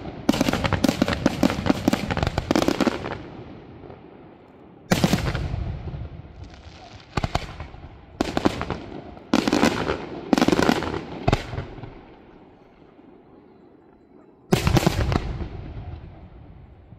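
Aerial fireworks shells bursting in volleys. A rapid string of bangs opens, then more clusters follow through the middle, a short lull, and one loud burst near the end, each trailing off in an echoing rumble.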